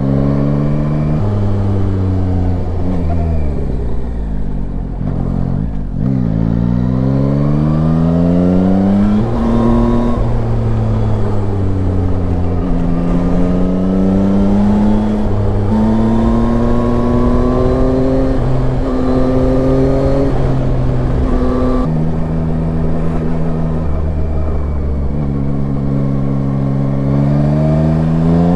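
Yamaha Tracer 9's inline three-cylinder engine pulling through the gears while riding. The revs fall away a few seconds in, then climb again and drop in steps at each gear change, several times over.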